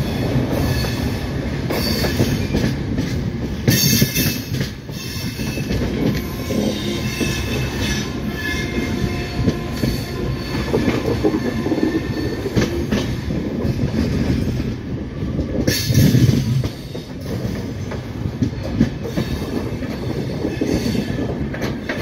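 A passenger train's coaches rolling over the rails as the train runs into a station, heard from an open coach door: a steady rumble and wheel clatter with some high wheel squeal and a few louder knocks.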